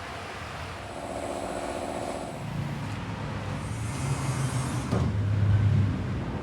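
A motor vehicle's engine running, louder near the end, with a sharp click about five seconds in.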